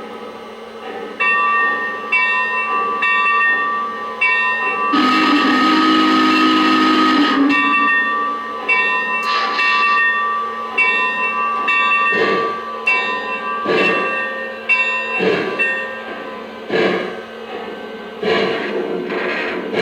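Lionel Legacy 4-8-4 Northern model's onboard sound system: the locomotive bell ringing, one long steam whistle blast with a hiss about five seconds in, then slow, evenly spaced steam chuffs as the engine starts to pull away.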